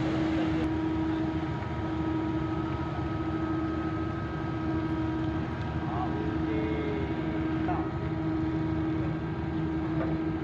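Car ferry's engines running under power during docking, a steady low rumble with a constant hum tone.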